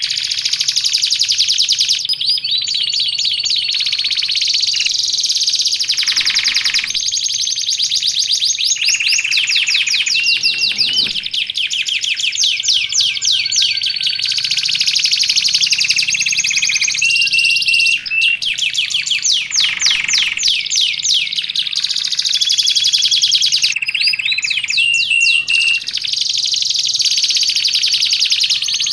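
Domestic canary singing a continuous song of fast repeated trills and rolls, broken by short steady whistled notes.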